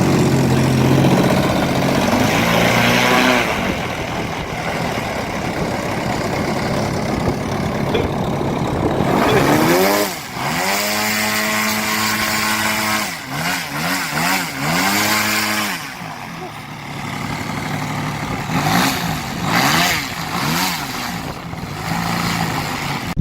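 Engine of a radio-controlled Laser aerobatic model plane in flight. Its pitch rises and falls again and again as the throttle changes and the plane passes.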